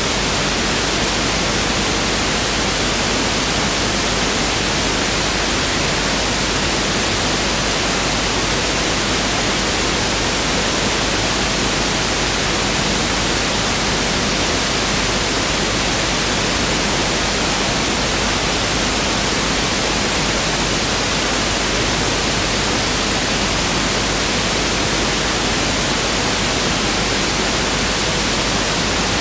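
Pink noise test signal: a steady, even hiss spread across the whole audible range, unchanging throughout.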